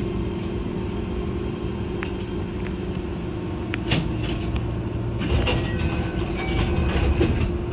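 Keihan electric commuter train running with a steady low rumble and a held motor tone. From about two seconds in come clicks and short high squeals from wheels and brakes, busiest near the end as the train comes into the station stop.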